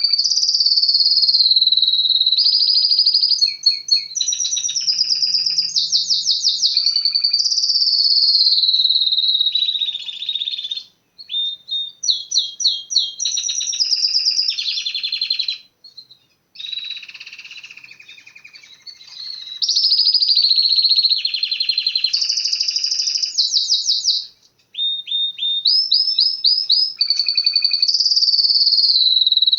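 Domestic canary singing a long, continuous song of rapid trills and rolls, with a few brief pauses.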